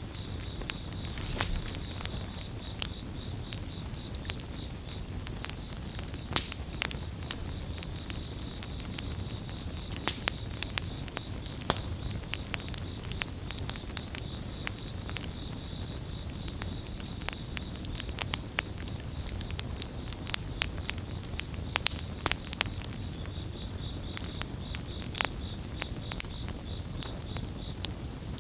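Campfire crackling and popping, with irregular sharp snaps over a low steady rumble of the burning wood. Crickets trill steadily in the background, fading out for several seconds midway and then returning.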